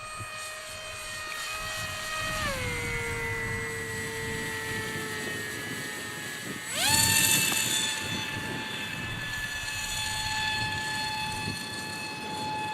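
Radio-controlled model plane's motor and propeller whining steadily. The pitch drops about two and a half seconds in and sags slowly, then jumps sharply higher and louder about seven seconds in and holds.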